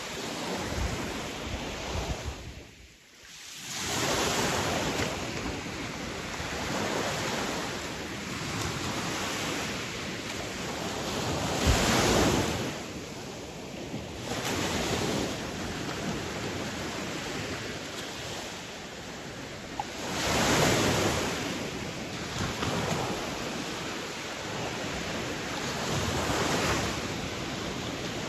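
Sea waves washing onto a shore: a continuous rush of surf that swells loud as each wave breaks, several times over, with a brief drop in level about three seconds in.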